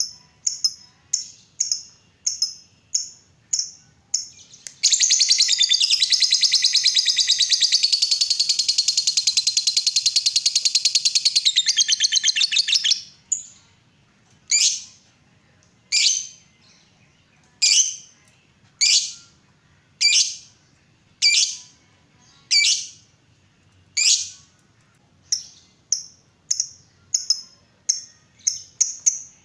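A lovebird calling: short high chirps in quick succession, then about eight seconds of loud, very rapid chattering trill, the long "ngekek" that keepers prize. It then goes back to single chirps spaced more than a second apart, which come faster near the end.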